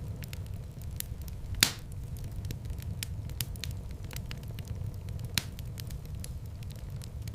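Wood fire in a fireplace crackling, many small sharp clicks over a low steady rumble, with two louder pops, one about a second and a half in and another about five seconds in.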